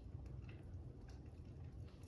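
Faint crackling-fire ambience: scattered soft pops and ticks over a low steady rumble.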